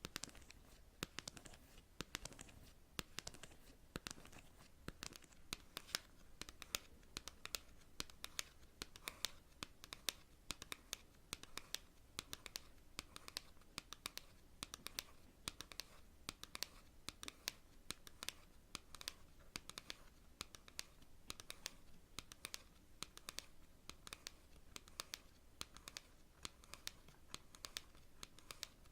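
Long natural fingernails tapping on cards: quick, irregular light clicks, several a second.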